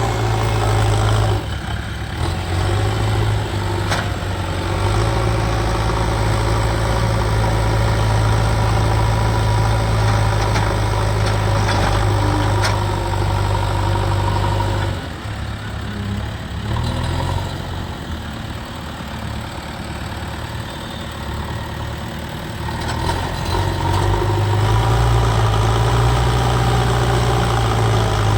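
JCB 3DX backhoe loader's diesel engine running steadily, then dropping in speed and loudness about halfway through for several seconds before picking back up near the end.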